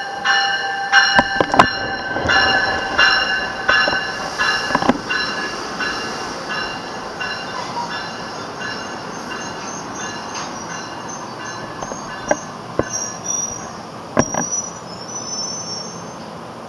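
NJ Transit multilevel push-pull train, cab car leading and an ALP-46 electric locomotive pushing, pulling into the station. A bell rings about twice a second for the first few seconds and fades out, wheels click over the rail joints, and thin high brake squeals come near the end as the train stops.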